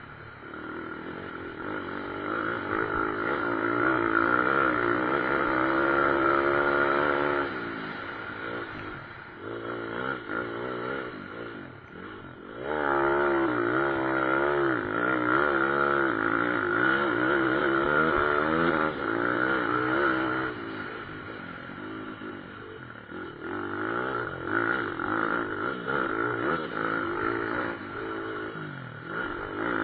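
Several pit-bike motorcycle engines revving up and down through the gears as the bikes race past, overlapping one another. The sound swells loud three times, early on, mid-way and near the end, and drops back in between.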